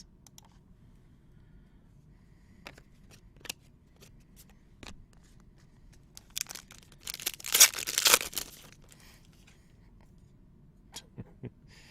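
Wrapper of a baseball card pack torn open, a rustling tear of about two seconds midway, with scattered light clicks and taps of cards being handled before and after.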